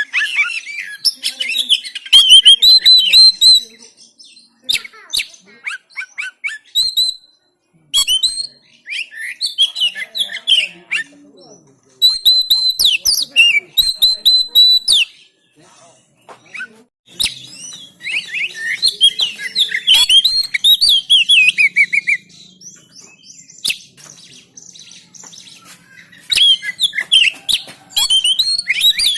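Oriental magpie-robin (kacer) singing loud phrases of rapid, varied whistles and chattering notes, broken by short pauses of about a second.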